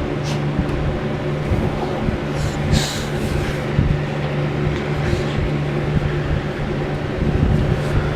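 Steady, heavy rain noise with a constant low hum running under it.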